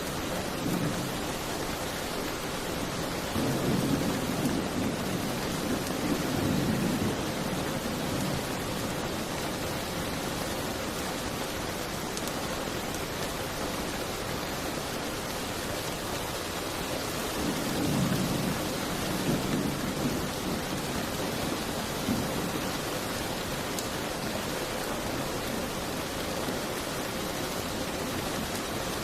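Steady heavy rain with low rolling thunder that swells twice, once in the first several seconds and again about two-thirds of the way through.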